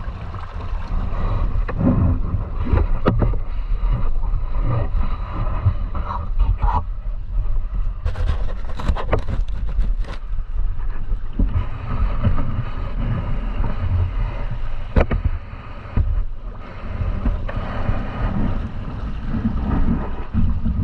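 Low, rushing rumble of river water with scattered clicks and knocks, a cluster of them about halfway through and a sharp knock near the end.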